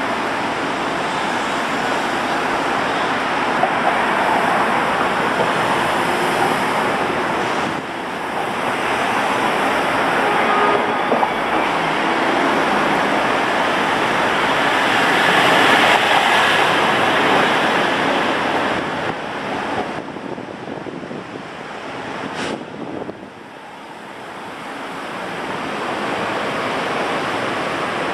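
Light rail train on the line, heard as a steady rushing noise that swells to its loudest about halfway through and falls away after about twenty seconds. A single short click is heard just before the quietest point.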